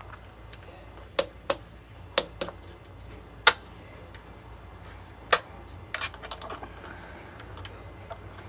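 A series of sharp clicks and knocks, hard objects handled or struck, some coming in quick pairs, with a cluster of lighter clicks about six seconds in.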